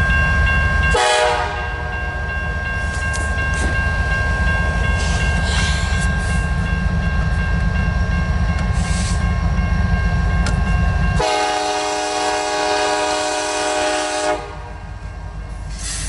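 Canadian National freight locomotive's air horn sounding for the grade crossing: a short blast about a second in, then a long, loud blast of about three seconds near the end, over the steady rumble of the approaching train.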